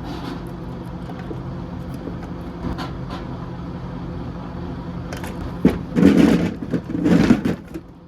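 A vehicle engine running steadily. About five and a half seconds in, a few sharp knocks and louder rattling bursts come over it.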